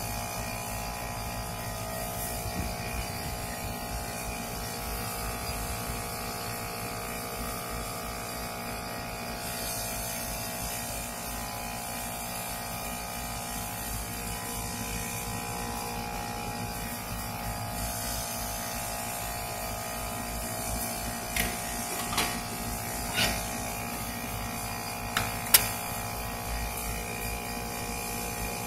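Rooftop air conditioning unit running with a steady mechanical hum. A few light clicks and taps come near the end.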